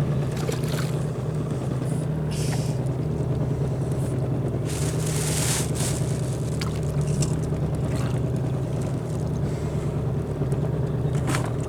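Boat's outboard motor running steadily, a low even hum, with a few short bursts of hiss about two and a half and five seconds in.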